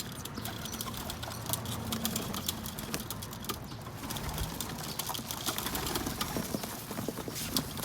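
Pigeons cooing low while pecking at sunflower seeds, with many quick sharp taps of beaks on the rooftop.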